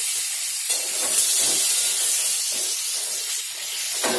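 Eggplant slices frying in hot oil with a steady sizzling hiss. A few short knocks come from a utensil at the pan, about a second in and again near the end.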